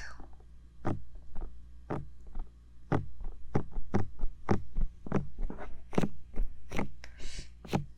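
Fingers tapping on the silicone ears of a 3Dio binaural microphone, about two or three soft, irregular taps a second, over a steady low electrical hum.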